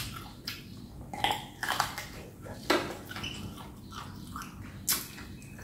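Mouth eating pickled chicken feet: biting and chewing, with irregular crisp crunches and wet clicks and a few sharper bites.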